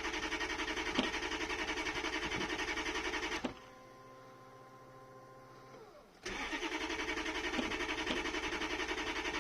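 A 1992 Lexus LS400's 1UZ-FE V8 being cranked on the starter in two bursts of about three seconds each, with a quieter steady whine in the pause between. It turns over evenly but never catches. The owner puts the no-start down to the injectors not firing.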